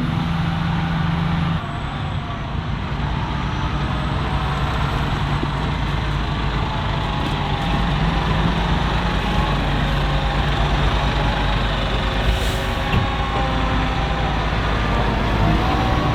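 Heavy diesel farm machinery of a maize harvest running steadily under load, a dense engine and machine noise with a low steady hum.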